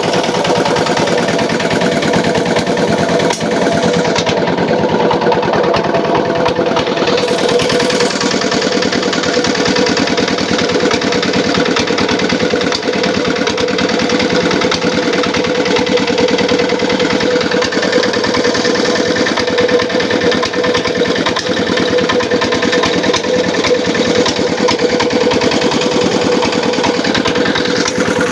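Small engine running steadily at a constant speed, driving a homemade gambier-leaf grinding machine.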